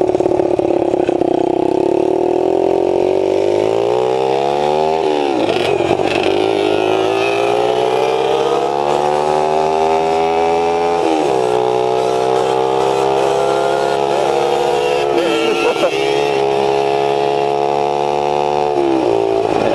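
Pit bike engine running under way, its pitch climbing steadily several times. It falls sharply about five seconds in and again about eleven seconds in, and drops once more near the end.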